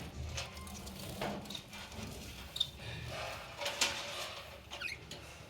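Budgies (budgerigars) in a cage giving a few short, high chirps, one sliding down in pitch near the end, mixed with scattered light clicks and taps.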